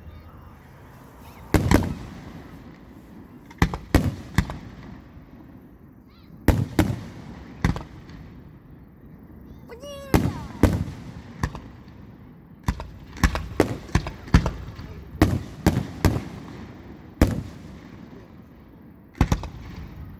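Aerial fireworks display: loud shell bursts going off at irregular intervals, often in quick pairs or clusters, each followed by a short echo.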